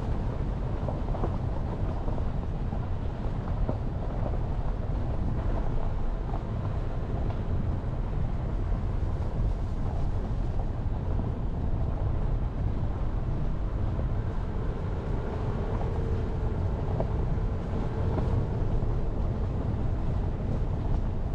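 Jeep Renegade driving: steady engine and tyre noise, heaviest in the low end, with scattered small ticks.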